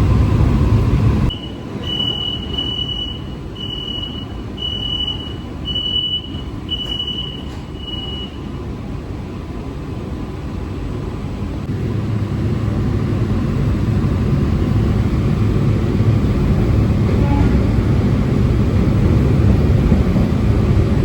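Inside an AC electric local train, loud running rumble that cuts off suddenly about a second in. Then about seven short high beeps, evenly spaced about a second apart, like an automatic door-closing warning. From about halfway, the train's low running rumble builds up again as it gets under way.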